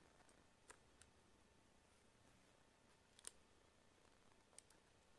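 Near silence broken by a few faint, sharp clicks from a tablet's case and screws being handled, the loudest about three seconds in.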